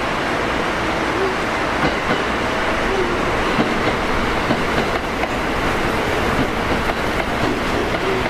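285 series Sunrise Express sleeper electric train passing through the station without stopping. There is a steady rumble of wheels on rail with scattered clicks over the rail joints.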